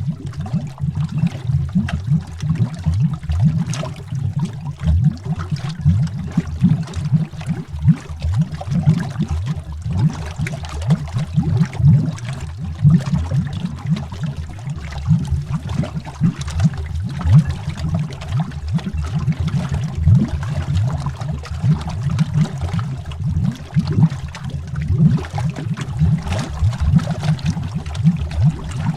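Steady underwater bubbling: a low, dense, irregular burble of many bubbles, with no pauses.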